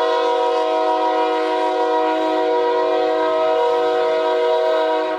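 Diesel locomotive's air horn sounding one long, steady blast of several notes at once, cutting off at the very end.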